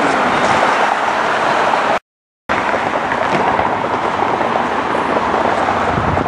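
Jet airliner engines making a loud, steady rushing roar. It cuts out abruptly for about half a second two seconds in, then carries on.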